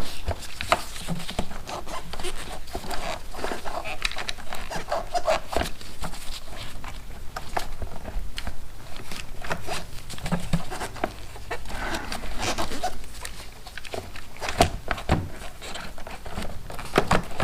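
Irregular clicks, knocks and rustling of a motorcycle battery and its wiring being wiggled and worked loose from the battery box by hand.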